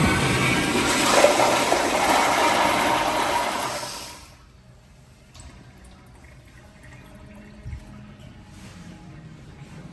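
Commercial flushometer fixture flushing: a loud rush of water that starts just before and lasts about four seconds, then falls away quickly to faint room tone.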